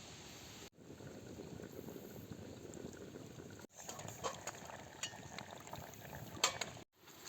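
A pot of food boiling with a steady bubbling. In the second half come a number of sharp clicks, the loudest just before the end.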